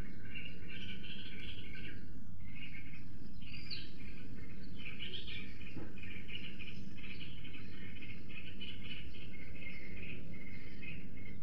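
Several small wild songbirds chirping and singing together in a continuous run of rapid, repeated short notes, over a steady low rumble of background noise.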